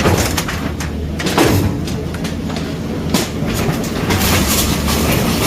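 Demolition machinery at work: a heavy engine running with a low rumble, broken by irregular clanks and crashes of metal and debris.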